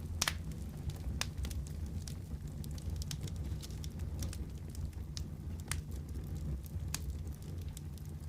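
Wood fire burning in a fireplace: a steady low rumble with scattered sharp crackles and pops, one or two a second.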